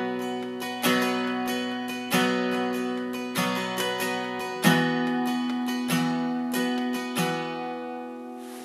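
Guitar strummed slowly, one chord struck about every second and a quarter and left to ring, as the opening of a song. The chord changes about halfway through, and the last strum rings out and fades near the end.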